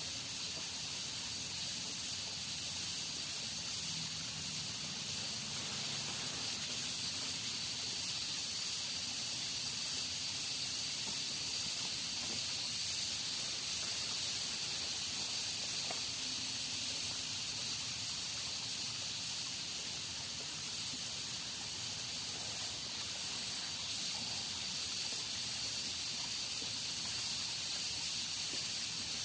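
Steady, high-pitched hiss of rainforest ambience, holding level throughout with a faint flicker.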